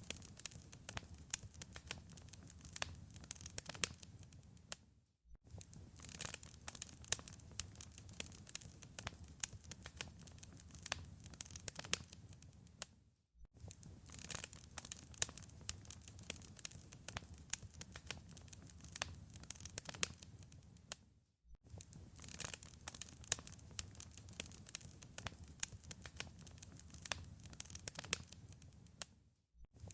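Wood fire in a fireplace crackling, with dense, irregular small pops over a low rumble. The sound briefly fades to silence about every eight seconds, where a short recording loops.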